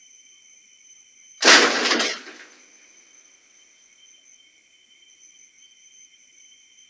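A sudden loud crash about a second and a half in, fading out within about a second, over a steady high insect chorus of crickets.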